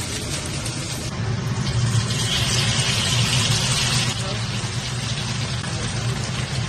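Sliced meat sizzling in hot oil in a wok as it is stirred with a spatula, the sizzle growing louder about two seconds in, over a steady low hum.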